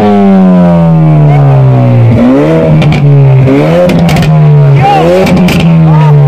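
Ford Focus RS's turbocharged 2.3-litre four-cylinder free-revving while stationary: three quick throttle blips, each rise sharp and each fall slower, with sharp cracks from the exhaust as the revs drop.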